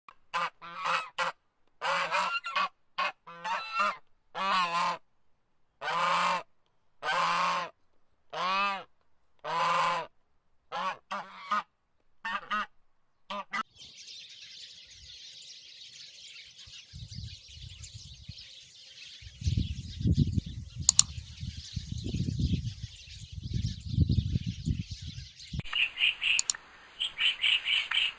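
Goose honking, a long series of short and drawn-out honks for about the first thirteen seconds. Then a steady high hiss with low rumbling, and rapid high chirps near the end.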